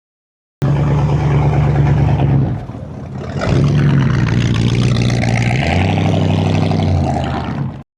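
A car engine running, its low note stepping down in pitch twice. It starts suddenly under a second in and cuts off suddenly near the end.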